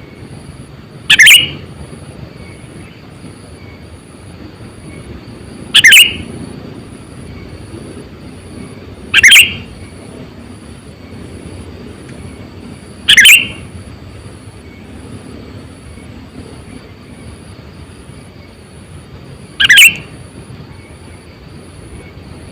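Sooty-headed bulbul, a decoy bird kept for luring wild bulbuls, giving a short loud call five times, several seconds apart, over a steady hiss.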